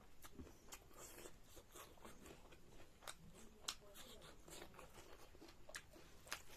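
Faint close-up eating sounds: chewing and crunching food, with scattered small mouth clicks and a couple of sharper crunches.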